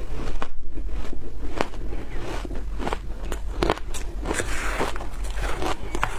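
Biting and crunching into frozen food: a run of sharp, irregular cracks and crunches.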